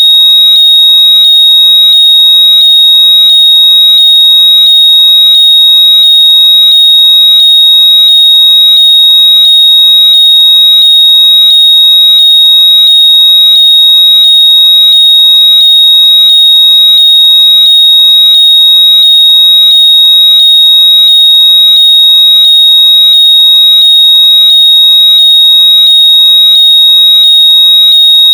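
Very loud, steady, high-pitched electronic tone, unbroken throughout: a generated noise for locating lost earbuds or headphones by ear. Fainter sweeping sounds repeat beneath it at an even pace.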